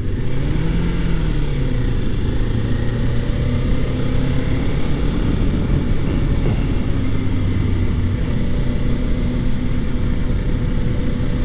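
Kawasaki Ninja 400's parallel-twin engine running at low, fairly steady revs, with a brief rise and fall in pitch about a second in.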